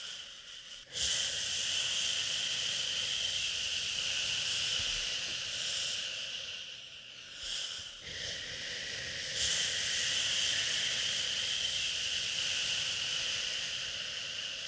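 Long drawn-out 'shhhh' shushing to soothe a baby, starting sharply about a second in, with short breaks around seven and eight seconds before it resumes.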